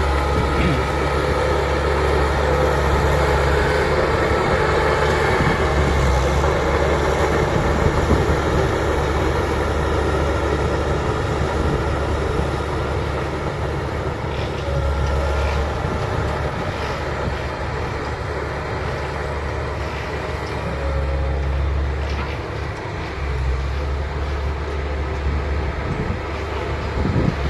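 Bulldozer's diesel engine running steadily, its low hum swelling and easing every few seconds as the load changes while it pushes and levels soil.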